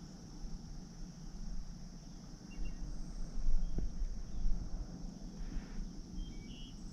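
Steady high-pitched insect drone over a low rumble, with a few short bird chirps and a single click about four seconds in.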